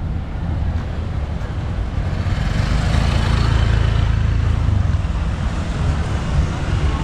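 Road traffic: a motor vehicle's low engine rumble, growing louder for a couple of seconds in the middle as it passes, then easing.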